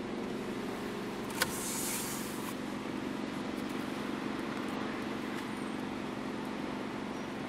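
FAW V5's engine idling steadily, heard from inside the cabin as a smooth, even hum. There is a single sharp click about a second and a half in, followed by a brief hiss.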